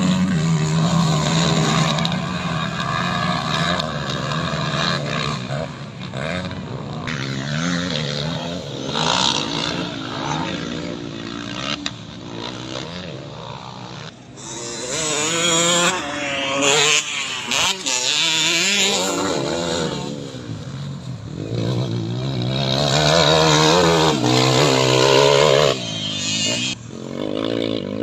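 Motocross dirt bike engines revving up and down, their pitch repeatedly rising and falling as they accelerate and ease off, with a quieter stretch around the middle.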